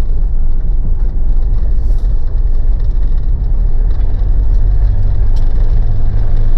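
Mitsubishi Pajero's diesel engine and tyre noise as the car drives along a snowy dirt road, a steady low rumble heard from inside the cabin. An even low hum in the engine note settles in about halfway through.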